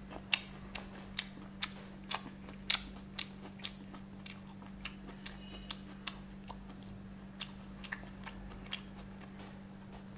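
Close-up chewing of a mouthful of crispy fried chicken leg: a run of small, sharp crunches and crackles, about two or three a second, over a steady low hum.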